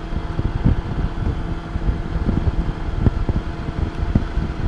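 Wind rushing and buffeting over a helmet-mounted microphone on a moving Honda Goldwing motorcycle, with irregular low thumps, over the steady hum of the bike's engine.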